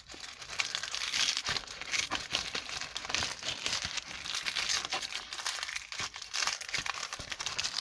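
Crinkling and tearing of a firecracker packet's wrapping as it is opened, a dense, continuous run of small crackles and rustles.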